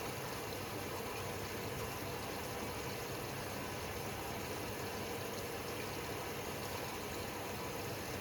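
Hoover Sportswear 1300 washing machine running a wash programme: a steady, unbroken sound of water and motor.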